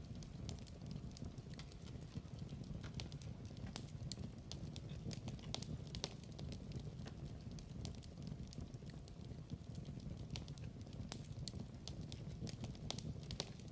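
Wood fire crackling in a fireplace: a steady low rumble of burning logs with frequent, irregular sharp pops and snaps.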